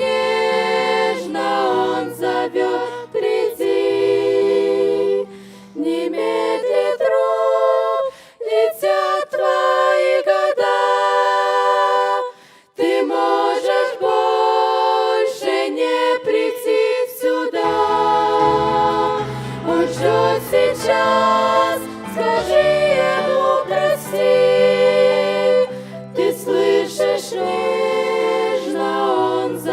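Choral singing of a slow Christian song, with held notes and shifting harmonies; the low voices drop out for about ten seconds in the middle, then come back.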